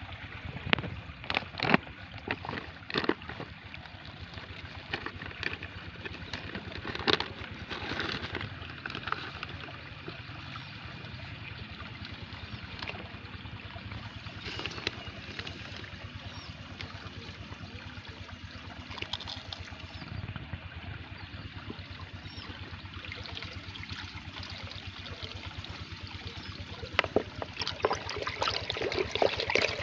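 Water trickling and splashing steadily, with scattered knocks, growing louder and busier near the end.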